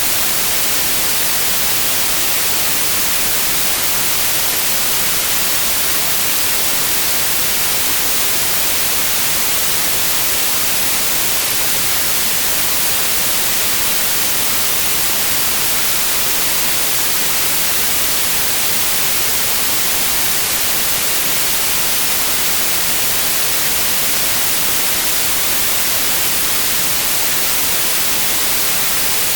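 Steady white noise: an even, unchanging hiss, brightest in the high frequencies, with no variation or events.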